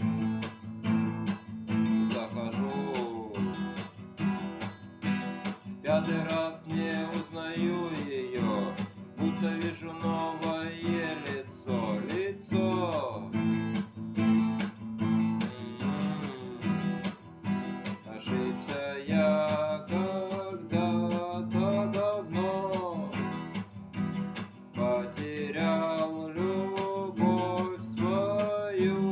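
Acoustic guitar strummed in a steady, driving rhythm, with a voice singing a melody over it.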